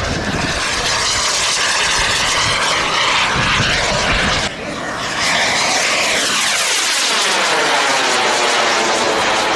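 Giant-scale radio-control model warplane's propeller engine making a loud pass overhead. There is a brief break a little before halfway, and in the second half the engine note sweeps downward in pitch as the plane goes by.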